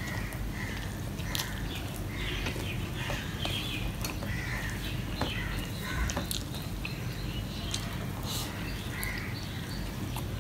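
Close-miked eating sounds: chewing and wet mouth clicks as rice mixed by hand with okra fry is eaten, with fingers working the rice on a steel plate.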